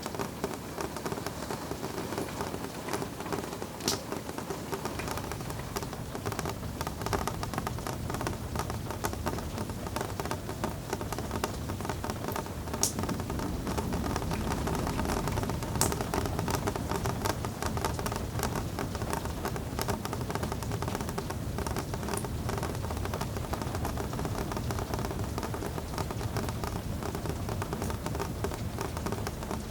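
Steady rain pattering on a window, with many fine drop ticks and a few sharper taps. A low rumble builds under it about five seconds in.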